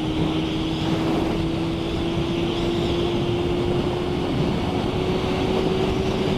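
Motorcycle engine running at a steady cruise, its note rising slowly as the bike gently gains speed, over a steady rush of wind and road noise.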